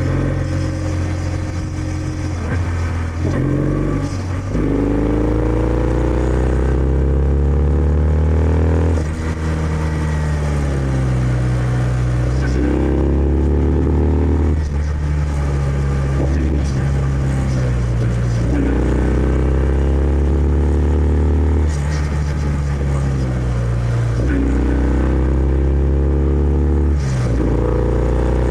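Kawasaki W650's air-cooled parallel-twin engine through its stock exhaust, heard from the rider's seat while riding. The engine pitch climbs and drops again and again as the bike accelerates through the gears and rolls off the throttle.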